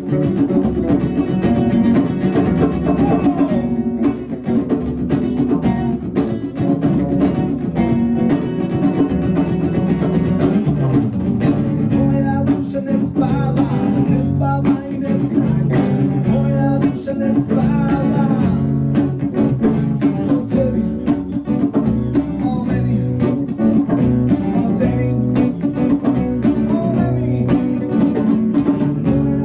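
Live band music: guitar with a steady drum beat, played through the whole stretch.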